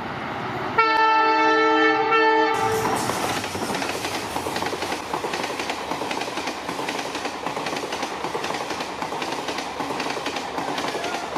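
A train horn sounds once for about two seconds, starting about a second in. Then comes the steady rumble and rapid clatter of train wheels running over rail joints.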